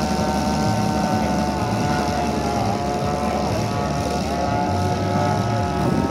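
Saito 450 three-cylinder four-stroke radial engine of a giant-scale RC AT-6 Texan running steadily with its propeller, the pitch wavering slightly now and then.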